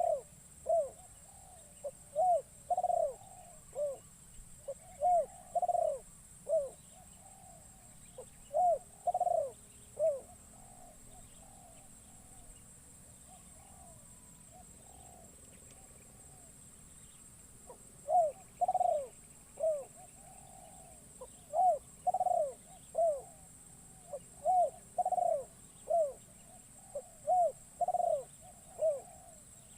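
Spotted dove (terkukur) cooing in repeated phrases of short arched coos, falling silent for several seconds midway and then resuming; it is a captive decoy calling to lure wild doves. A steady high-pitched hiss runs underneath throughout.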